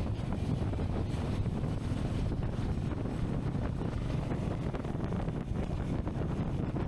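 Wind buffeting the camera's microphone on a moving motorcycle: a steady, heavy low rumble of wind noise with no clear engine note.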